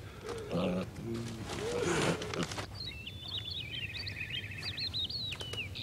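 A songbird singing: high chirps with a fast trill in the middle, beginning about three seconds in. Before it, a short low voice-like sound.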